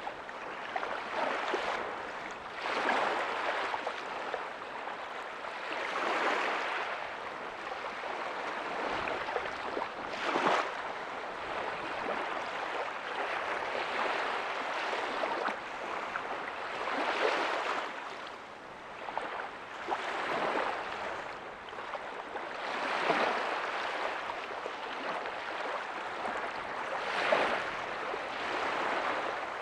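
Small ocean waves breaking softly on a beach: a continuous wash of surf that swells and eases every few seconds.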